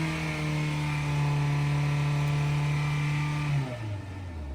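Car engine revved up and held at steady high revs for about three and a half seconds, then dropping back to idle near the end. The car is in drive but not moving, which the driver puts down to the transmission slipping.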